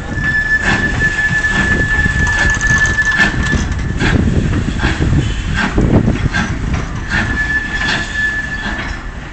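Broad-gauge train of wooden open carriages and goods wagons rolling past, its wheels knocking over rail joints about once a second under a low rumble. A high steady wheel squeal runs for the first few seconds and comes back near the end.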